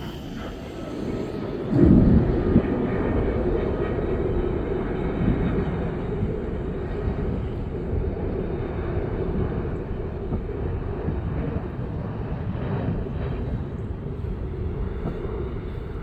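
Jet airliner engines running, a steady low rumble that gets suddenly louder about two seconds in, with a brief falling tone at that moment.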